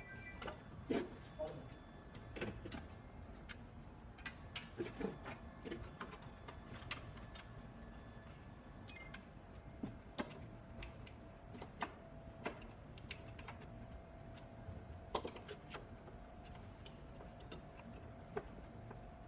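Scattered light clicks and taps at an uneven pace, a few of them sharper knocks, with a faint steady hum coming in about halfway.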